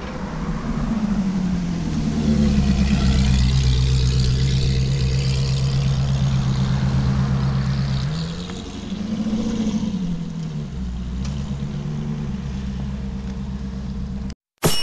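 Ferrari F430's V8 engine running through a de-cat race exhaust: its pitch rises, holds steady, dips and climbs again, then settles lower. It cuts off abruptly near the end.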